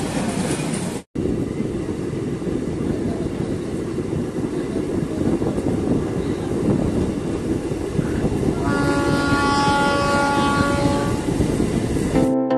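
MEMU electric passenger train running, heard from aboard as a steady rumble with wheel-on-rail clatter. Near the end a train horn sounds one steady blast lasting about two seconds.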